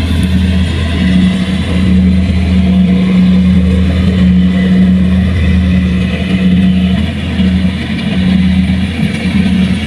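A machine's engine running steadily at an even speed, with a constant low hum.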